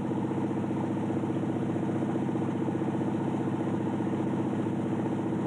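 de Havilland Canada Otter floatplane's engine and propeller running steadily in cruise, heard from inside the cabin.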